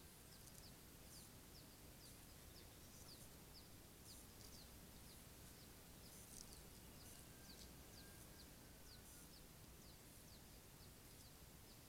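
Near silence with faint, short, high bird chirps repeating about twice a second over a low steady hiss.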